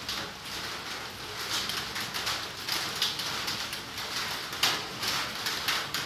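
Rain pattering irregularly on foliage, with one sharper, louder patter about three quarters of the way through.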